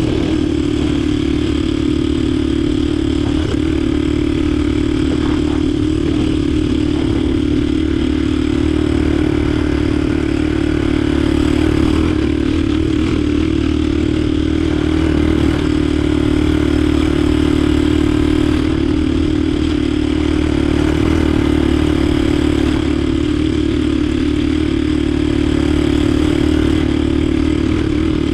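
Swapped-in Diabolini 250 cc four-stroke engine in a Yamaha DT 125 motorcycle, running steadily at an even speed with no revving.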